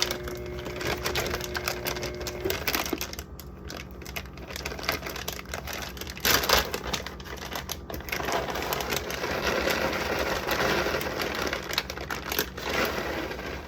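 Plastic bags of shredded cheese crinkling and rustling as they are handled, opened and emptied together, with many small crackles.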